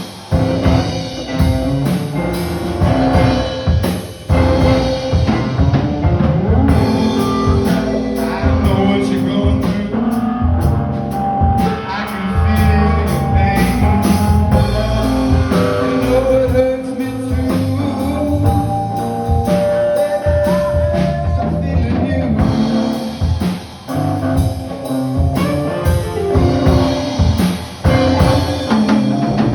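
Live blues-rock band playing, with a drum kit keeping a steady beat under guitar and some singing.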